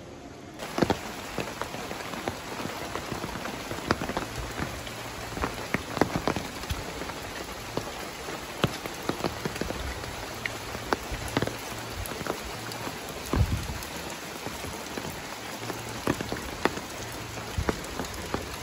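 Steady rain falling, with many irregular sharp drops smacking close by. It begins abruptly about half a second in.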